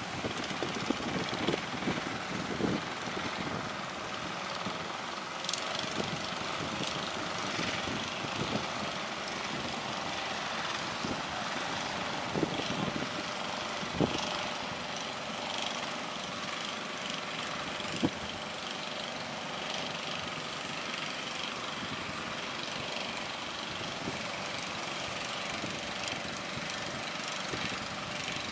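A boat's motor running steadily, with wind and water noise and a few sharp knocks.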